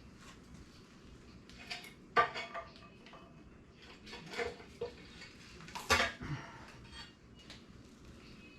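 Hand tools striking and clanking against the metal of a 5.3 LS V8 engine during teardown: a run of irregular sharp metal clanks and knocks, the loudest about two seconds in and about six seconds in, as a stuck part is persuaded loose.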